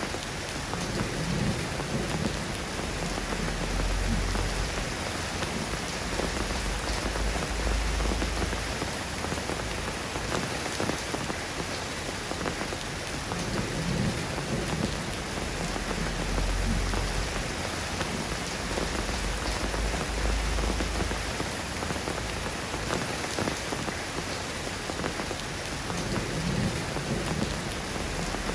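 Steady rain falling, an even hiss of many drops. Low rumbles of thunder swell and fade about three times.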